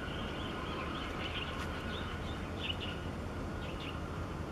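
Small birds chirping in three short bursts over a steady low rumble.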